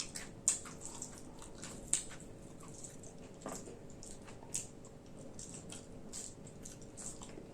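A person eating khichdi (rice and lentils) up close: wet chewing and lip-smacking, with sharp little clicks every second or so.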